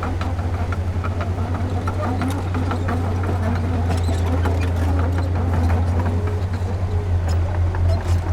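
Heavy diesel engine of earthmoving equipment running steadily with a fast, even low pulse, with scattered light clicks and clanks over it.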